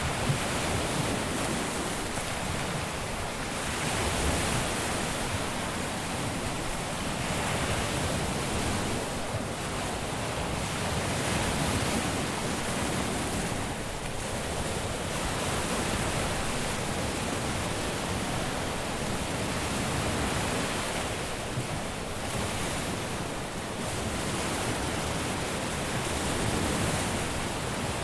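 Caribbean surf breaking and washing on the beach: a continuous wash of waves that swells and eases every few seconds.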